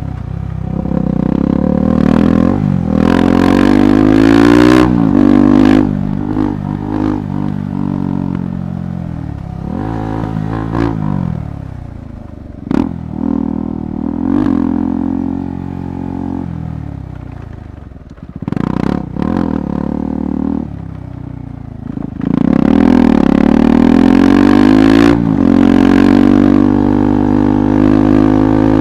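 KTM 390 Adventure Rally's single-cylinder engine being ridden off-road, its pitch rising and falling over and over with throttle and gear changes. It is loudest about two to five seconds in and again near the end. A few sharp knocks and some clatter come through from the rough ground.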